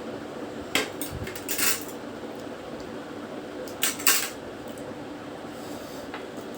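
Cutlery clinking and scraping against a plate in two short clusters, about a second in and again about four seconds in, as the last of the food is eaten up.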